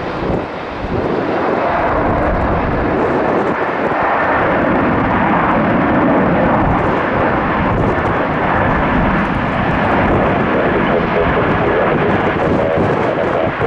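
Jet airliner passing close, its engines making a loud, steady noise that swells about a second in and holds.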